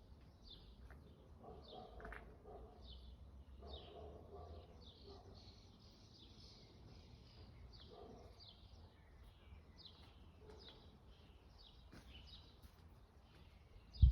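Birds chirping: a continuous series of short, high, falling chirps about twice a second, with fainter lower calls now and then.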